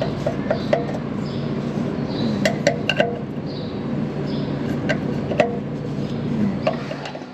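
Scattered sharp metallic clinks and short ringing taps of tools against baler sheet metal, some in quick pairs and triples, over a steady low hum.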